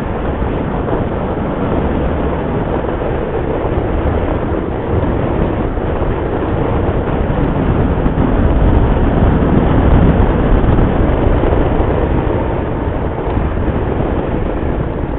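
A motorcycle on the move: engine and wind rush heard together as a steady, dense noise. It swells a little toward the middle, then eases off near the end.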